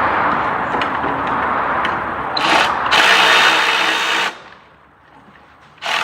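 Cordless power tool spinning off the 10mm nut on the ABS pump's rear bracket, run in short bursts: a brief one about two and a half seconds in, a longer one of just over a second, then a quick blip near the end. Before the tool starts there is a steady rushing noise.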